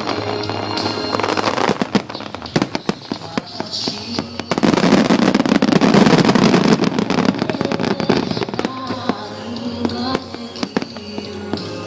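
Fireworks display: aerial shells bursting and crackling one after another, building to a dense, loud barrage with a deep rumble from about four and a half to seven and a half seconds in, over music played along with the show.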